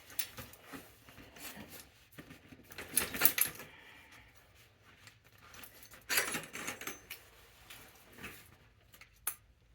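Scattered metallic clinks and rattles of tools and bicycle parts being handled, louder about three seconds in and again about six seconds in.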